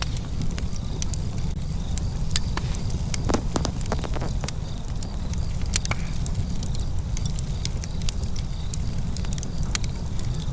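Open fire crackling, with sharp snaps and pops scattered irregularly and a quick cluster of them about three seconds in, over a steady low rumble.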